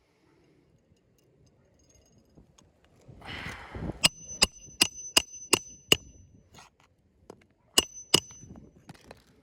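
Hammer driving roofing nails into a shingle: six quick, ringing strikes about a third of a second apart, then two more a couple of seconds later. A short scraping rustle comes just before the first strikes.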